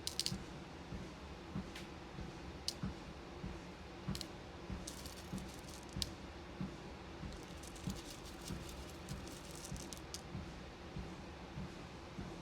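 Footsteps on a walking pad treadmill, soft thuds about twice a second, with loose beads clicking and rattling as they are sorted by hand: single clicks now and then, and busier runs of rattling around the middle.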